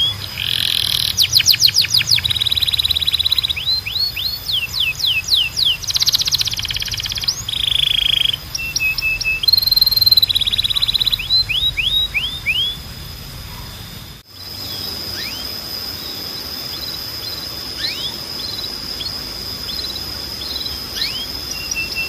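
Timbrado canary singing a song of fast trills and rapid runs of repeated down-slurred notes, changing phrase every second or two. About two-thirds of the way through, the song breaks off suddenly, leaving a steady high tone with a few isolated falling chirps.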